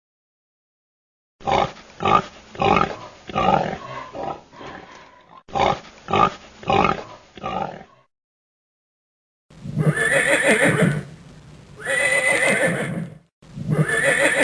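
A horse neighing: a whinny of short, shaky pulses in two runs. After a short gap, a rooster crows three times.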